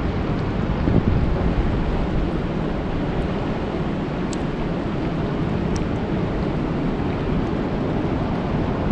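Steady rain falling on a lake: a dense, even hiss with a heavy low rumble underneath, swelling briefly about a second in. Two faint sharp ticks in the middle are single drops striking close by.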